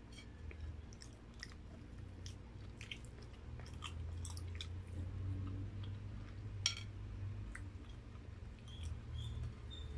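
A person chewing grilled barbecue and rice, with scattered wet mouth clicks and smacks and one sharper click about two-thirds of the way through.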